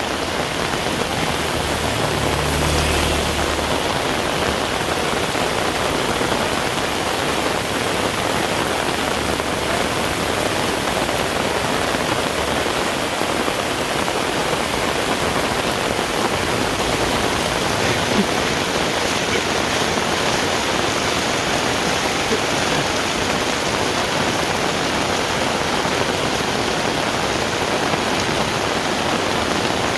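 Heavy rain falling steadily on a road and its surroundings, a dense, even hiss. A faint low rumble fades out in the first few seconds.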